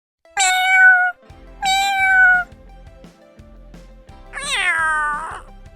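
A domestic cat meows three times: two short meows about a second apart, then a longer meow near the end that falls in pitch. Soft background music plays underneath.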